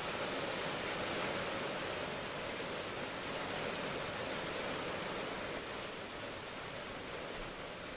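Steady rain ambience: an even hiss of falling rain with no separate drops or other events, easing slightly in level toward the end.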